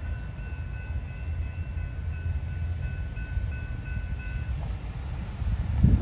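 A passenger train running past with a steady low rumble. A thin high ringing tone comes in short, evenly repeated pulses until about four and a half seconds in. A louder surge of rumble comes just before the end.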